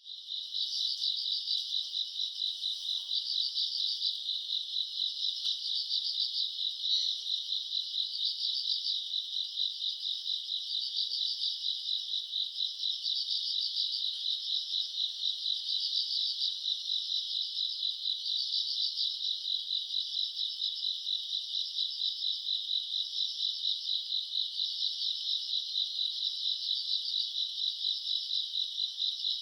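Summer-night chorus of grass insects such as crickets, trilling continuously in a high, dense band, with an upper layer that swells and pulses about once a second.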